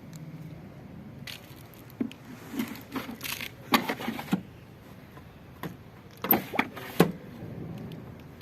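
Irregular clinks, knocks and scrapes of metal tools and parts being handled, a cluster of sharp clicks in the middle and three louder knocks near the end.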